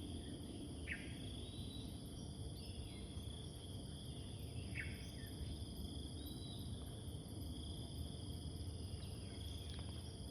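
Small songbirds calling: scattered high chirps and two clear downward-sweeping notes, about a second in and again near five seconds. Behind them run a steady high insect drone and a low rumble of town noise.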